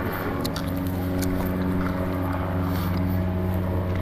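Steady hum of a car engine running.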